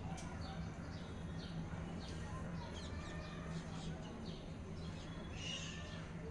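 Faint birds chirping, with short high chirps coming every half second or so and a louder burst of chirping near the end, over a steady low hum.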